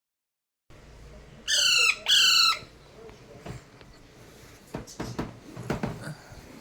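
Pet parrot squawking twice, two loud harsh calls in quick succession about a second and a half in, followed by a few faint clicks and taps.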